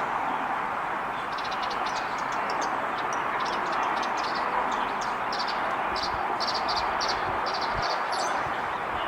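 Small songbirds chirping in quick runs of short, high notes, over a steady rushing background noise.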